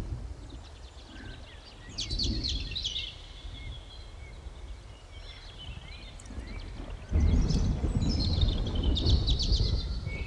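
Birds chirping and singing in short quick trills over a low, steady background noise. The noise jumps louder about seven seconds in.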